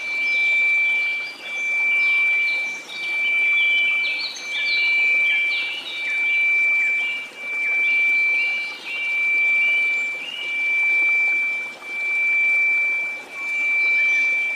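A steady 2334 Hz sine tone over a white-noise hiss, the whole swelling and fading about every second and a half. Short falling chirps like birdsong come and go above the tone, thickest in the middle.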